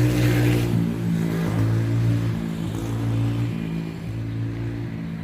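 A motor vehicle's engine running with a steady hum that shifts pitch briefly about a second in and grows quieter near the end.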